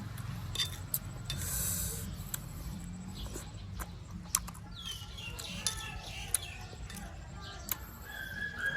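A person biting and chewing crisp fruit: scattered sharp crunches and wet mouth sounds over a steady low hum.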